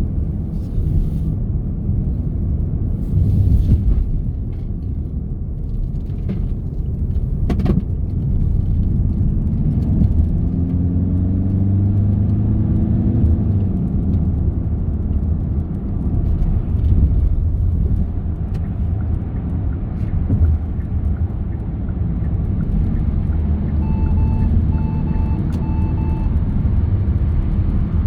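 Car driving along a road, with a steady low engine and tyre rumble. About ten seconds in, a pitched tone rises and then falls. Near the end come three short electronic beeps.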